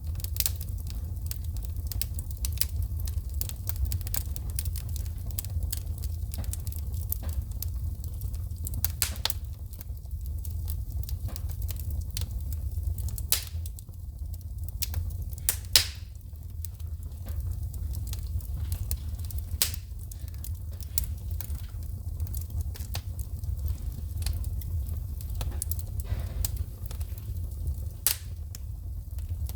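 Wood fire in a fireplace crackling, with irregular sharp pops as sparks shoot from the burning logs, over a steady low rumble; two louder pops stand out about halfway through.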